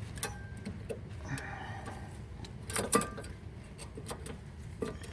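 Brake pads being fitted into the caliper bracket's hardware clips: scattered metal clicks and clinks, a few with a short ring, the loudest about three seconds in.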